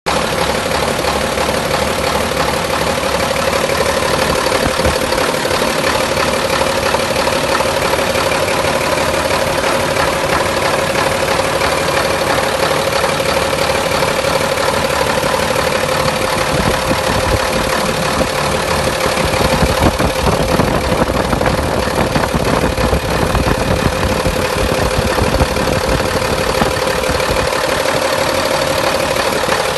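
1960 Scania L75 truck's diesel engine idling steadily.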